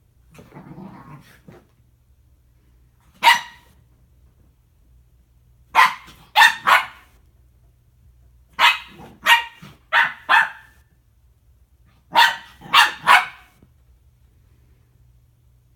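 A pet dog growls low, then barks in short sharp bursts: once, then three, four and three barks in quick groups. It is pestering a cat to give up a blanket the cat is lying on.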